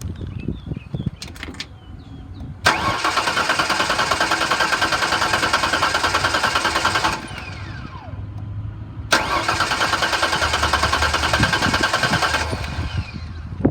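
2004 Ford Ranger's 3.0-litre V6 cranking on the starter twice, each time for about four seconds, with an even rhythmic churn but never catching, with a falling whine as each crank stops. The no-start is suspected to be a failed fuel pump after the truck sat in storage.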